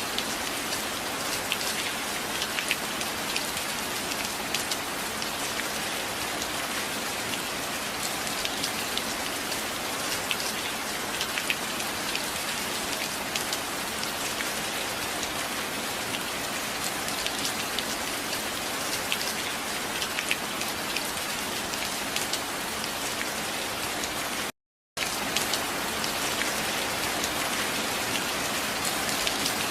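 Steady rain, a dense hiss with many individual drops ticking sharply through it. The sound cuts out completely for about half a second near the end.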